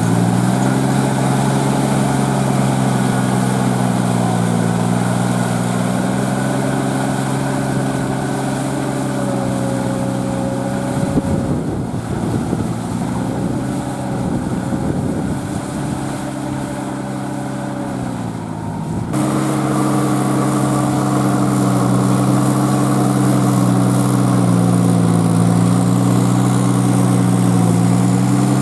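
Kubota L3408 tractor's diesel engine running under load while puddling with a rotavator, its pitch sagging and recovering several times as the load changes. From about the middle to two-thirds through it sounds rougher and slightly quieter, then changes abruptly to a steadier, slightly higher note.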